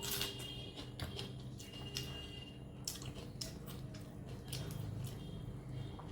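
Close-miked wet chewing and lip-smacking of someone eating curry and rice, with sharp mouth clicks about once a second, over a low steady hum.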